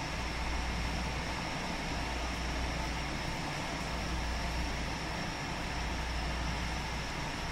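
JR West 221 series electric train running at speed, heard from inside the car: a steady rumble of wheels on rail with a faint high whine, holding even throughout.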